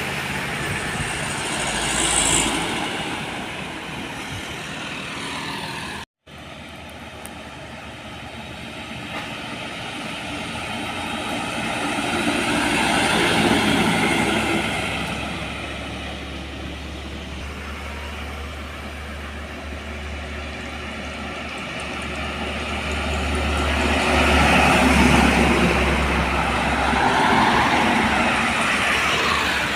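Heavy trucks driving past on a road, their diesel engines and tyres swelling and fading as each one passes. The sound cuts out for a moment about six seconds in.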